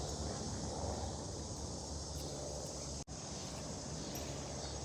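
Steady outdoor background noise with no distinct event, broken by a momentary dropout about three seconds in.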